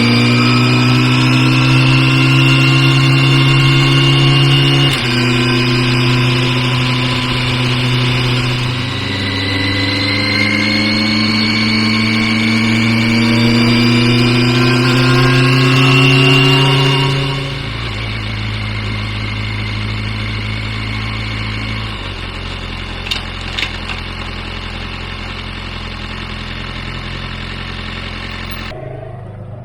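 Kawasaki Ninja ZX-6R's inline-four engine running under way. Its note climbs slowly, then steps down in pitch four times, as with upshifts. It runs louder in the first half and lower and steadier after that, and stops abruptly near the end.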